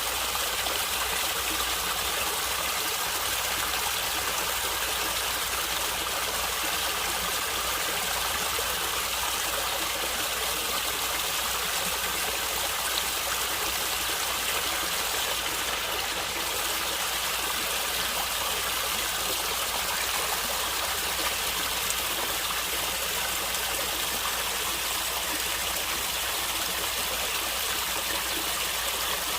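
A stream of water running and gurgling steadily, an even rushing sound with no breaks.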